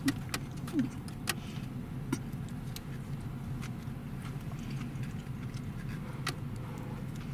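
Steady low hum of a car idling, heard from inside the cabin, with a few short sharp clicks over it.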